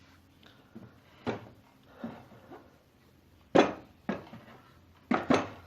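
A few short knocks and clunks of turbocharger parts being handled and set down, the loudest about three and a half seconds in.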